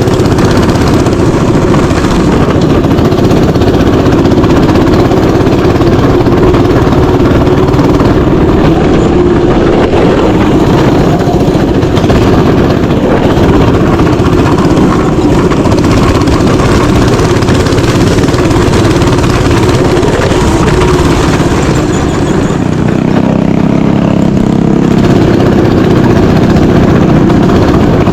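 Mini bike engine running loud and steady, its tone dropping slightly about three-quarters of the way through.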